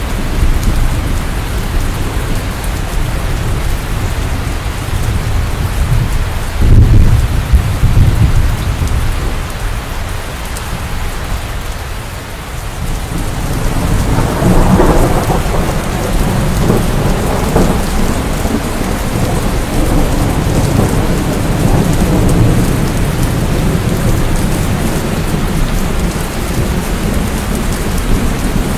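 Steady heavy rain with thunder rumbling low underneath: a loud rumble about a quarter of the way in, a lull, then another long rumble swelling just before halfway and rolling on.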